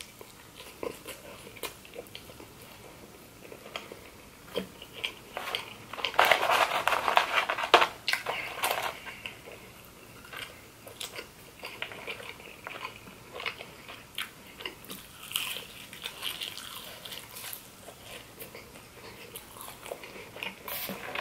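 Close-miked biting and chewing of a cheeseburger: wet mouth sounds and small crunches, busier and louder about six to nine seconds in.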